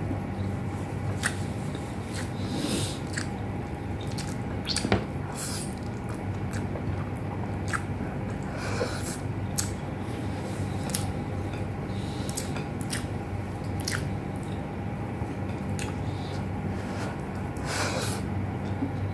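A person chewing a mouthful of beef and eggplant with rice, with wet mouth smacks and scattered short clicks over a steady low hum.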